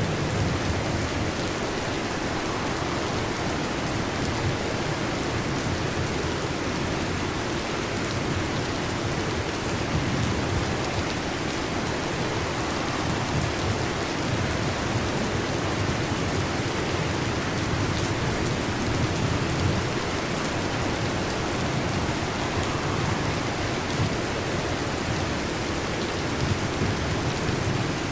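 Heavy rain drumming steadily on a metal roof, with low thunder rumbling now and then underneath.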